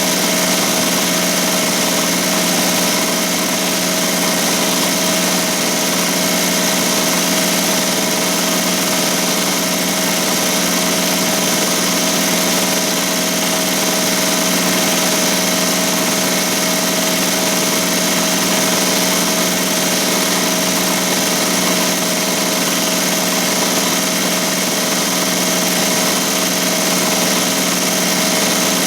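ZSK Sprint 10-needle commercial embroidery machine stitching at about 1200 stitches per minute: a steady, unbroken mechanical running sound with one constant tone.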